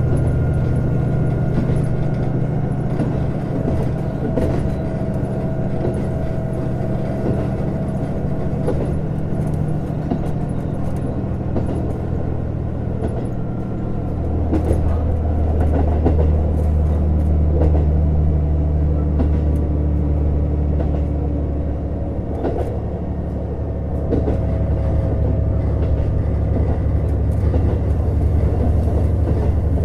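JR Hokkaido KiHa 150 diesel railcar running, its diesel engine droning steadily under scattered light clicks. About halfway through, the engine note shifts lower and stronger, and it changes again near the end.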